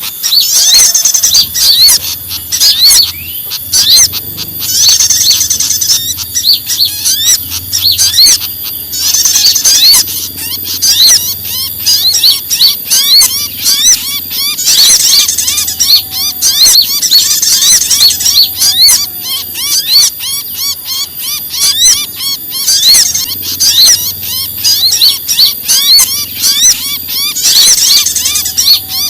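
Dense, agitated chirping and chattering of several small songbirds: a bird-lure mix of alarm and distress calls. It swells into louder flurries every few seconds, over a faint steady low hum.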